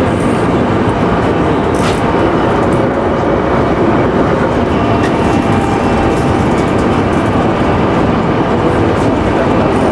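JR Nikko Line local train running between stations: steady rumble of wheels on rail and running gear, with a faint click about two seconds in.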